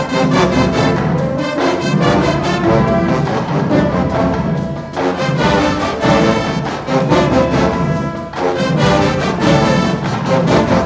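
HBCU-style marching band playing: a full brass section holding loud chords over drums, in phrases with short breaks between them.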